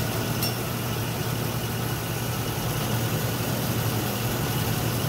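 Isuzu truck engine idling steadily, running so the 4L30E automatic transmission can be filled with fluid. A faint light click or two sounds right at the start.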